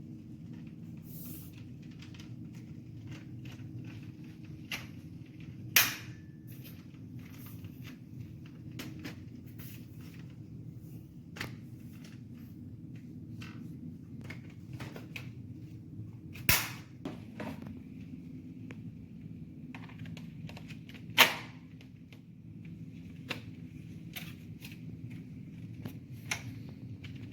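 Dyson Gen5outsize cordless vacuum cleaner running on carpet with a steady hum, with scattered clicks and crackles of debris being sucked up through it and three loud sharp snaps.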